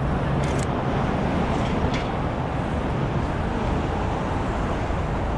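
Steady city traffic noise, an even rumble without rise or fall, with two faint clicks about half a second and two seconds in.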